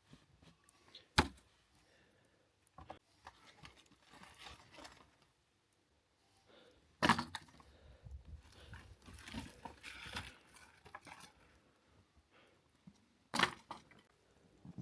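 Three sharp knocks, about six seconds apart, with rustling, crinkling handling noises between them.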